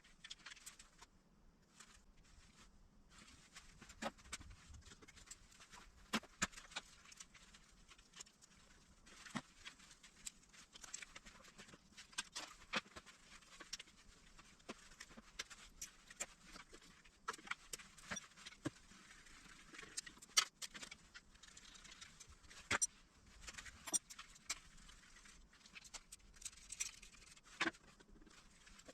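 Faint, irregular clicks, taps and light scraping of hand tools and small parts being handled while the engine is stripped down.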